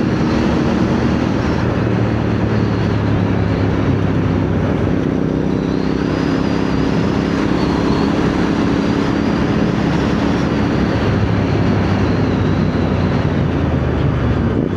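CFMoto 450NK parallel-twin motorcycle engine running steadily at cruising speed, with wind rushing over the helmet microphone.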